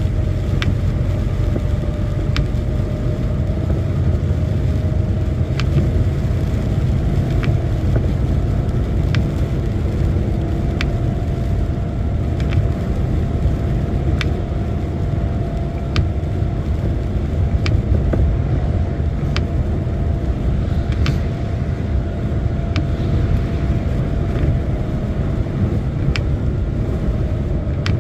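Lorry driving at speed, heard inside the cab: a steady drone of engine and road noise with a faint hum, and light ticks about once a second.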